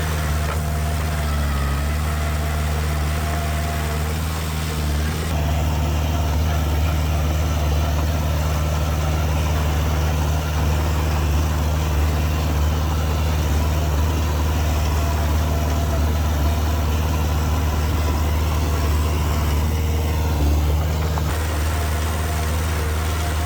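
Heavy construction machine's diesel engine running steadily with a deep hum; the sound changes abruptly about five seconds in and again near the end.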